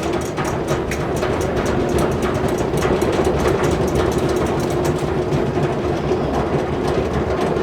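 Sustained drum roll, a steady continuous rattle held at an even level, building suspense before the choice is revealed.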